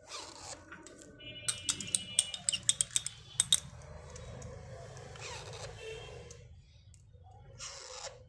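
A quick run of about a dozen sharp clicks and taps a second and a half in, with soft rustling before and after, as a hungry parakeet chick is hand-fed.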